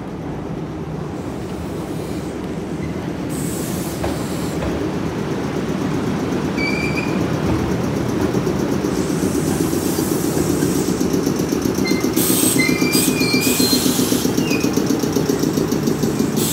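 Iyotetsu 700 series electric train pulling slowly into the station, its wheels rumbling on the rails and growing louder as the cars pass close by. Short high-pitched wheel squeals come about seven seconds in and again a few seconds later.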